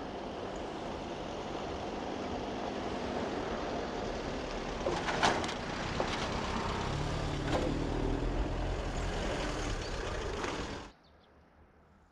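Two coupled ES1 Lastochka (Siemens Desiro RUS) electric multiple units running along the line: a steady rumble growing slightly louder, with a few sharp clicks around the middle. It cuts off suddenly near the end to a much quieter background.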